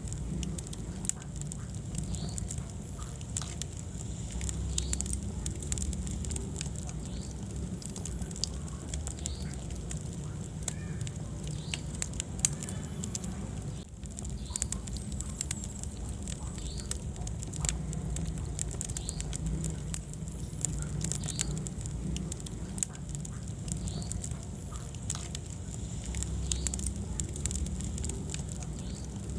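Wood fire burning in a fireplace: frequent irregular crackles and pops over a steady low rumble of flame.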